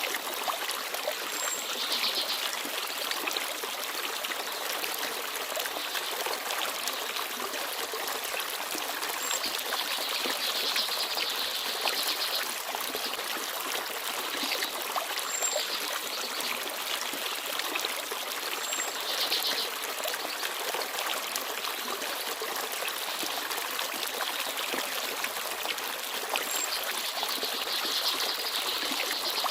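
Forest stream babbling and trickling steadily over rocks, swelling a little every several seconds. A few brief high chirps from small birds sound now and then.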